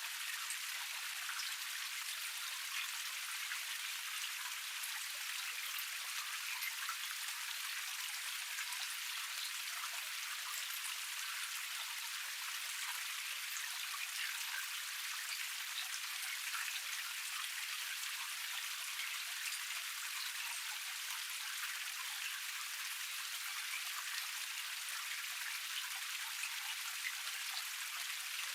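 Water of a small forest cascade splashing and trickling over rocks: a steady, even hiss peppered with fine droplet splashes, with no low rumble.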